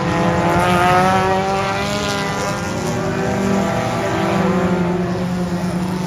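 Several race cars' engines running together at speed around a dirt oval, a steady blend of engine notes that rise and fall slightly as the cars lap.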